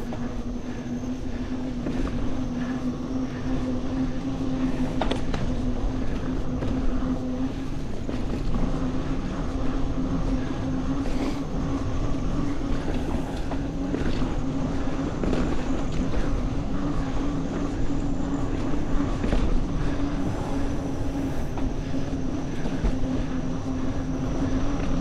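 Mountain bike rolling along a dirt singletrack trail: the knobby tyres give a steady hum, with scattered clicks and rattles from the bike over bumps and a low rumble of wind on the microphone.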